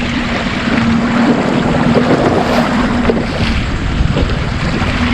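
Small boat under way while trolling: wind buffeting the microphone over the rush of water, with a steady low hum underneath.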